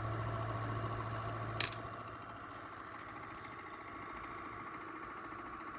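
Pulse motor with a 3D-printed magnet rotor running steadily with an even whine. A single sharp click comes about one and a half seconds in, and a low hum under the whine stops just after it.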